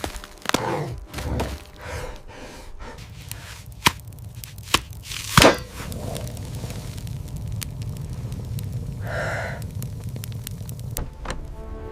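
Scattered sharp knocks and clicks over a steady low rumble, with one loud knock about five and a half seconds in.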